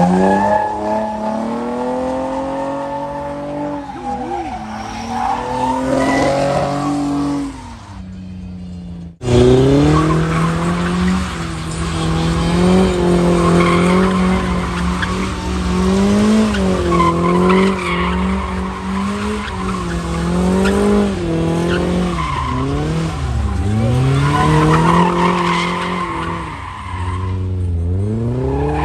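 Car engines revving up and down hard while tyres squeal, as in donuts or a burnout. The sound drops away briefly about eight seconds in, then the revving and squealing resume.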